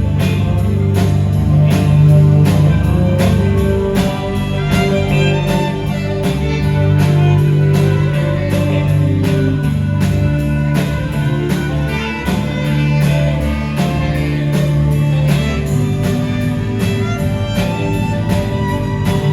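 Live rock band playing an instrumental break between verses, with a steady drumbeat, bass and a melodic lead on top.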